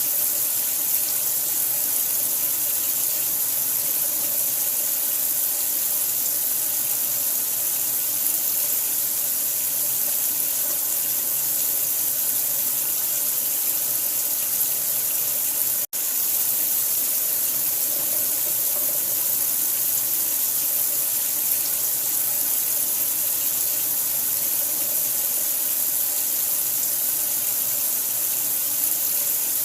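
Steady rush of running water, an even hiss heaviest in the high end. It cuts out for an instant about sixteen seconds in, then carries on unchanged.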